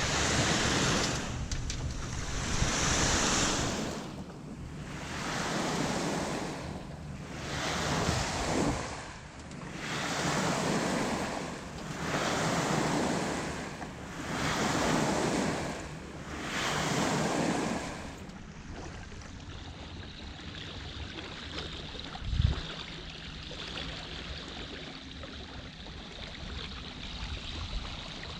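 Canoe paddle strokes through the water: a rhythmic splash and rush about every two and a half seconds, with wind on the microphone. The strokes stop about two-thirds of the way through, leaving steady water and wind noise and a single knock.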